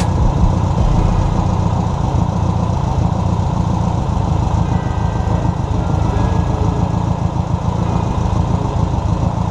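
Volkswagen Fusca (Beetle) 1600 air-cooled flat-four engine running steadily on an engine stand.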